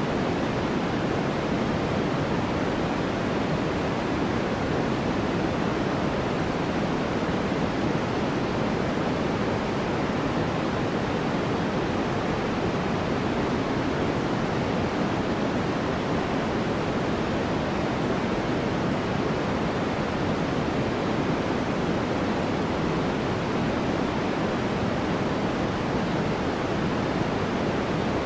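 Steady artificial noise from a sleep white-noise track: an even, rather deep hiss that never changes, fuller in the lows and mids than in the highs.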